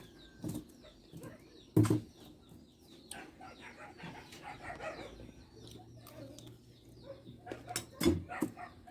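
Eating sounds: chewing and mouth noises, with a few short sharp taps, one about two seconds in and more near the end.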